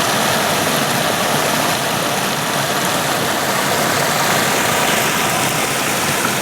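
Creek water rushing after heavy rain, a loud, steady, even rush.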